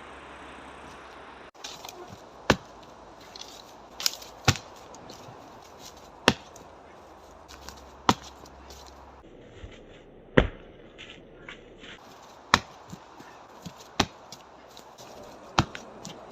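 Karate punches and kicks landing on a dry, dead tree trunk: about nine sharp wooden knocks, roughly one every two seconds, a few coming in quick pairs.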